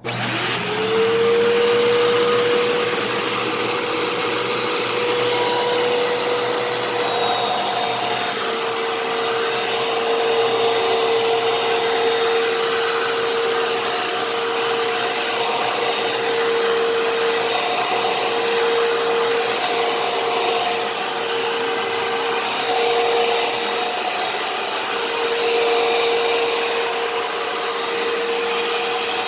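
Fantom Fury vacuum cleaner switched on: its motor spins up within the first second to a steady whine over loud rushing air, then runs on steadily while vacuuming.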